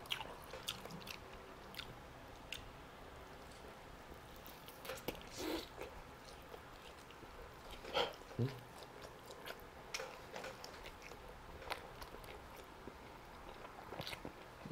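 Close-miked chewing and biting of a roasted chicken drumstick, with wet mouth clicks and smacks and a few louder bites about five and eight seconds in.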